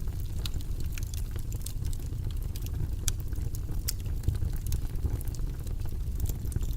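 Steady low rumbling ambient noise with faint, irregular crackles and clicks scattered through it.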